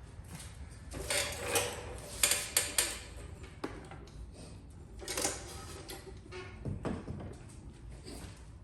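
Hand-tool work sounds during glue-pull dent repair: a run of scraping rushes and sharp clicks, loudest a second or two in and again around five seconds.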